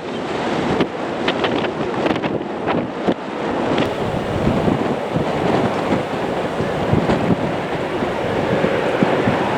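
Steady rushing noise with wind buffeting the microphone, gusting sharply in the first few seconds.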